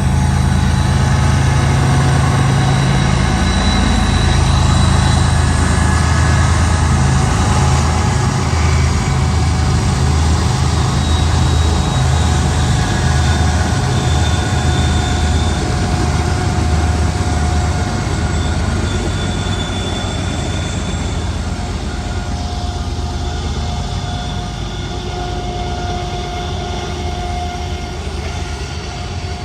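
BNSF intermodal freight train passing, its diesel locomotives' engine drone strong for the first fifteen seconds or so and then fading as the cars roll by. Thin wheel squeals ring out from the curve.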